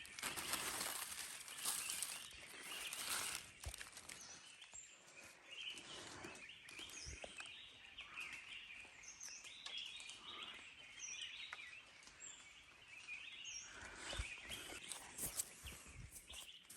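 Forest ambience: a steady high hiss with scattered short, high bird chirps through the middle, over irregular rustling.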